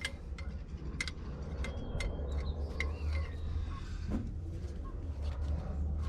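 Wrench clicking and clinking against the excavator's metal fittings while sensors are unbolted: a scatter of sharp metallic ticks, thicker in the first few seconds, over a steady low rumble.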